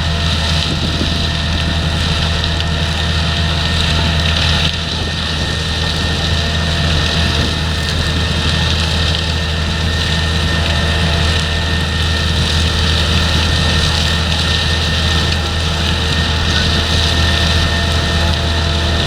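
Heavy potato-harvesting machinery running steadily: a continuous engine drone with a steady whine and mechanical noise over it.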